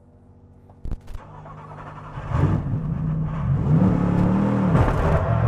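Mercedes-AMG GT3 race car's 6.2-litre naturally aspirated V8 starting up: a couple of clicks about a second in, then the engine comes in about two seconds in and runs loudly, its revs rising and falling as it is blipped.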